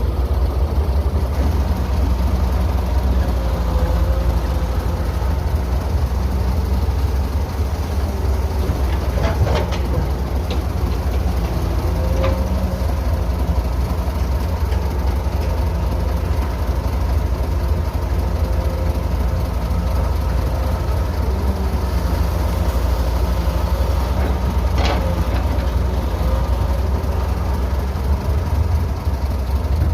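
Heavy construction machinery's diesel engine running steadily, with a few short knocks scattered through.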